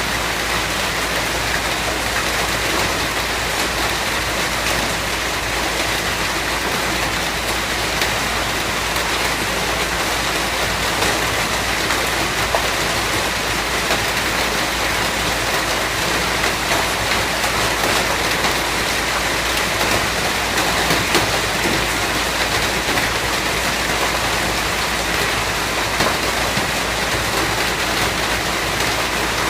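Steady rain falling on a surface: a dense, even hiss with many small drop ticks.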